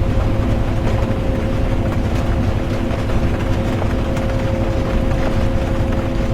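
Interior of a moving bus: steady engine and road rumble with a constant drivetrain hum, and rain ticking on the bus.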